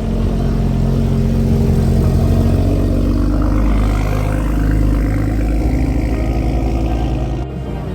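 A car engine running with a deep, steady rumble, its revs shifting a little around the middle.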